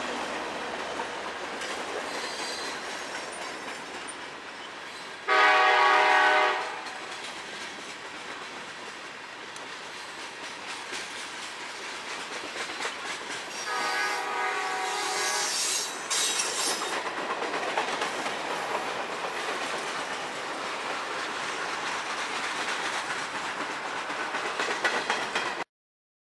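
Freight train rolling past with a steady rumble and wheel clatter over rail joints. Its locomotive horn sounds twice: a loud blast of just over a second about five seconds in, then a longer, quieter blast of about two seconds. The sound cuts off abruptly near the end.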